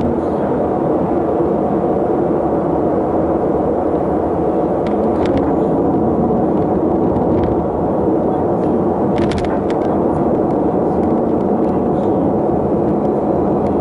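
Steady drone of a vehicle on the move, engine and road noise together, with a low hum holding a few steady tones and a few faint clicks about five and nine seconds in.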